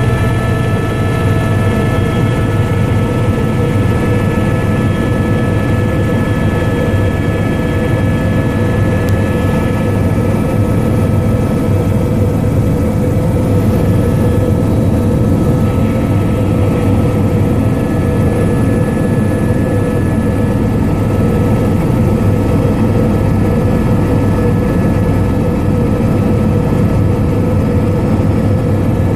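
Helicopter in flight: a loud, steady rotor and engine drone with a steady whine on top, part of which fades about ten seconds in.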